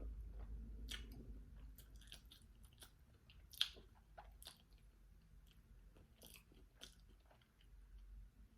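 A person chewing a mouthful of rice and sausage, with irregular faint mouth clicks and one sharper click about three and a half seconds in.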